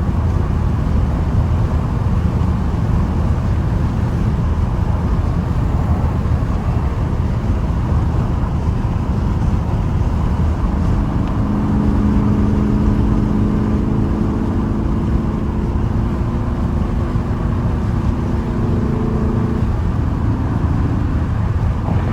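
Straight-piped, catless Dodge R/T V8 exhaust cruising at a steady pace, heard from inside the cabin. From about halfway through, a steady droning note rides over the engine and drops away shortly before the end.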